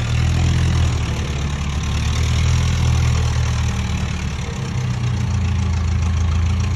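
A large vehicle engine idling steadily, a deep even note with no revving.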